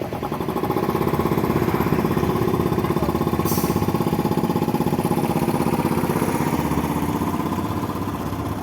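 Trolleybus's onboard piston air compressor running with a fast, even chugging that starts up, holds steady and eases off near the end. A short hiss of released air comes about three and a half seconds in.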